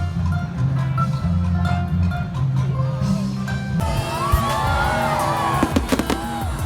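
Music with a steady bass line and short melodic notes, cutting off about four seconds in to the sound of a crowd outdoors, with a quick cluster of sharp bangs from fireworks going off near the end.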